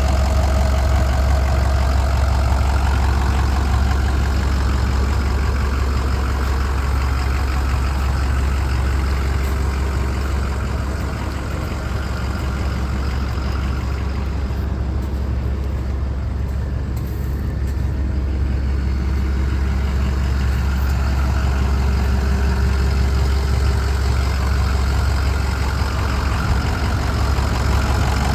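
The 6.0-litre Power Stroke V8 diesel engine of a 2007 Ford F-450 dump truck idling steadily, a little quieter through the middle.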